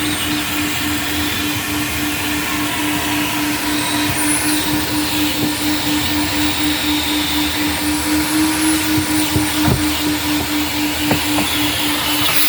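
Self-serve car-wash vacuum running steadily, its motor holding a steady hum under the hiss of air rushing through the hose, with a couple of light knocks near the end.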